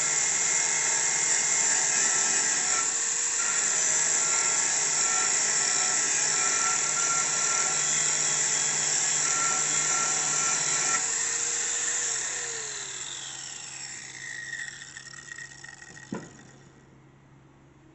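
A power grinder sharpening a mower blade runs steadily, then is switched off about 12 seconds in and spins down with a falling whine over a few seconds. A single sharp click comes near the end.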